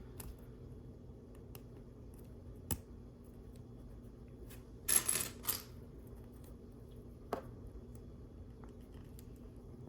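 Small plastic LEGO pieces clicking and clattering: a single click about three seconds in, a short clatter of pieces around five seconds in, and another click a couple of seconds later, over a low steady room hum.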